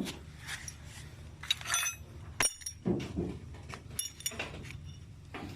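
Metal tools and motorcycle rear-wheel parts clinking and knocking as they are handled and removed. Several of the clinks ring briefly, clustered around the middle.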